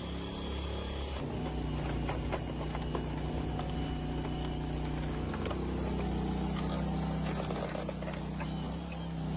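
Engine of a hydraulic log splitter running steadily. Its pitch shifts about a second in and again around halfway through, with faint scattered ticks over the hum.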